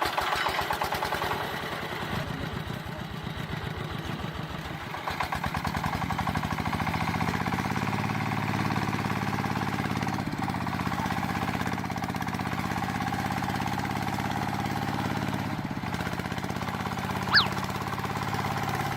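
A small motor running, at first with a fast, even chugging that smooths into a steady hum after a few seconds. One sharp click comes near the end.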